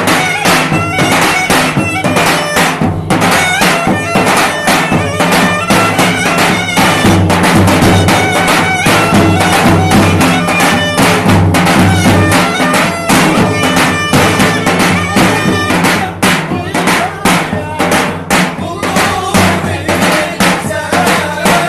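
Lively, loud folk dance music: a reedy wind melody over a held drone, driven by a fast, steady drum beat.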